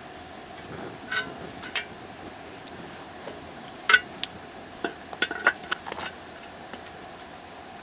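Camp cookware and utensils clinking and tapping: a scatter of short clinks, some ringing briefly, the loudest about four seconds in and a quick cluster a second later.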